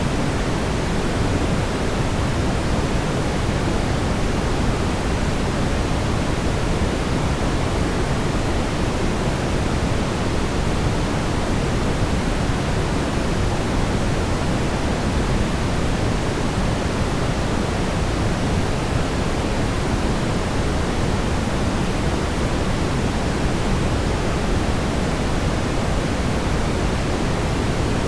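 Brown noise: a steady, unbroken rumbling hiss, strongest in the low end and falling off toward the highs.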